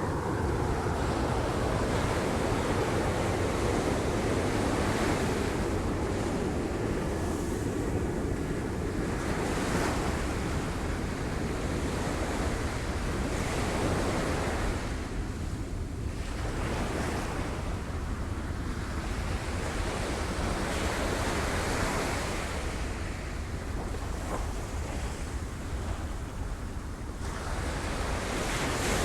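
Sea waves breaking against rocks and washing back: a continuous surf rush that swells and eases in surges every few seconds.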